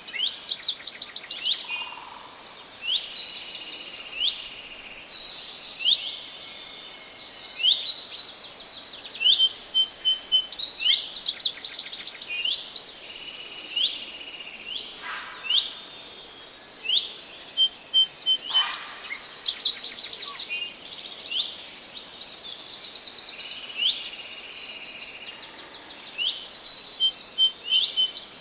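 Several forest birds singing at once, with fast trills and short sweeping notes repeated one after another, over a steady background hiss.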